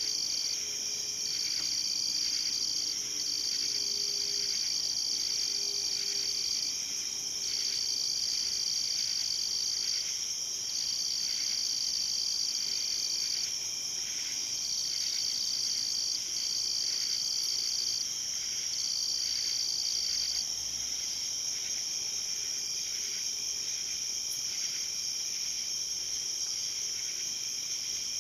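Night chorus of crickets and other insects: a steady, high, continuous trilling, with a second insect trilling in long phrases of one to three seconds with short breaks, which stops about two-thirds of the way through.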